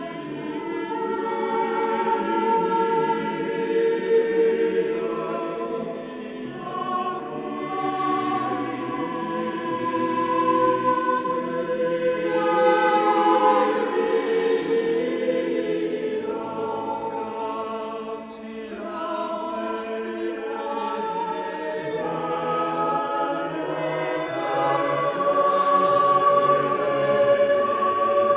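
Background music of a choir singing sustained, slowly moving chords.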